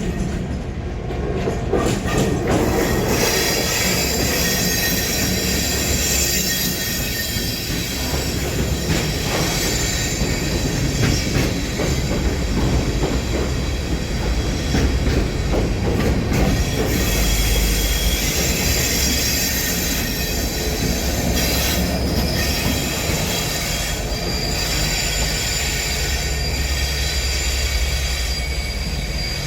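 Train rolling past, loud and steady: a low rumble of the cars on the rails with high-pitched wheel squeal, swelling over the first couple of seconds.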